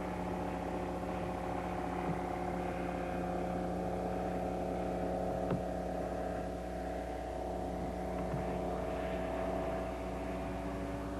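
Rotax 447 two-cylinder two-stroke engine of a flying-wing ultralight in flight, a steady drone whose pitch wavers slightly, with a small click about halfway through.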